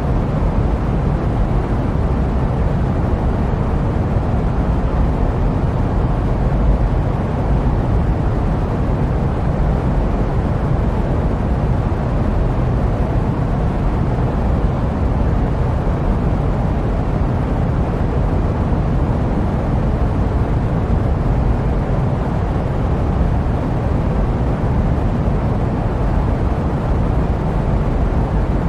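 Steady jet airplane noise: an even, deep rushing rumble with no changes, used as white noise.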